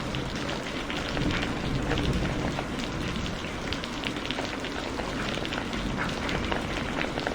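Heavy rain falling steadily, a dense hiss with many individual drops ticking on a surface.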